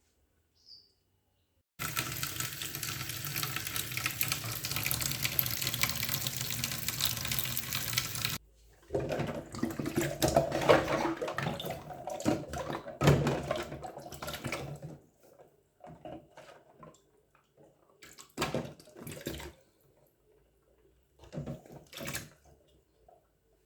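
Kitchen tap running steadily for about six seconds, then shut off abruptly. Several seconds of uneven, louder noise with sharp peaks follow, then a few separate knocks.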